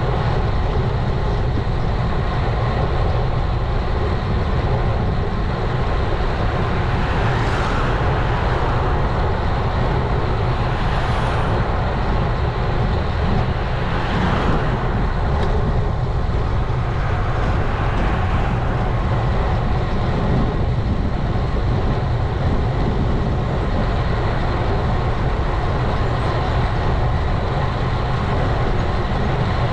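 Steady rumble of wind on an action camera's microphone while riding a road bike, mixed with road noise, with a few faint brief swells about a third of the way through.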